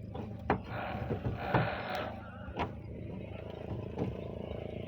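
An engine running steadily, with a few sharp knocks and a stretch of scraping as a roof tile is pushed and slid into place.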